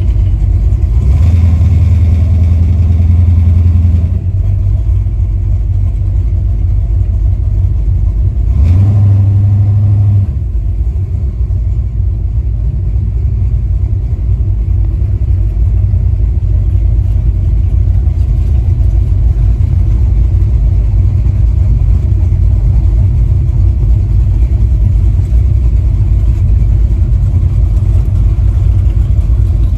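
V8-swapped Chevy LUV pickup driving, its engine giving a steady low drone, with two louder stretches under throttle: about a second in, and again about nine seconds in.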